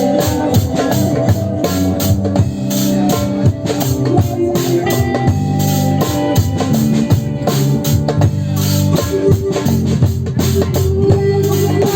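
A band jamming live: a drum kit keeps a steady, fast beat under held, sustained instrument notes that shift every second or two.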